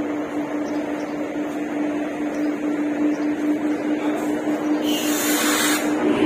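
Steady single-pitched electrical hum of an electric train standing at the platform, over a haze of mechanical noise. About five seconds in there is a hiss lasting about a second.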